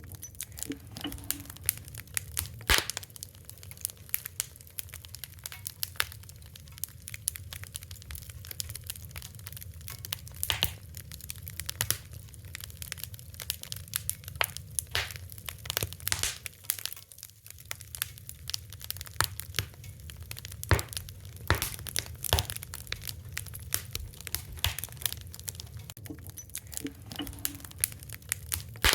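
Fire crackling: a dense, irregular stream of small pops and snaps, with a few louder sharp cracks, over a steady low rumble.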